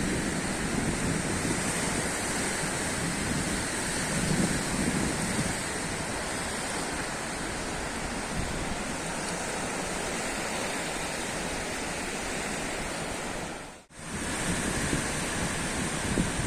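Sea surf washing in steadily, a constant rushing hiss with slow swells in the low rumble. About fourteen seconds in the sound dips out for an instant and comes straight back.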